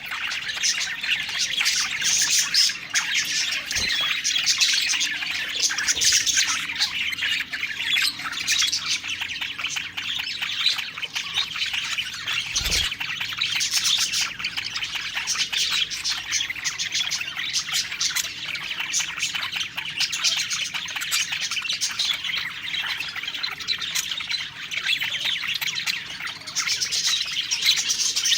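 A flock of budgerigars chirping and warbling continuously, a dense busy chatter of many birds at once, with a few brief clicks or taps among it.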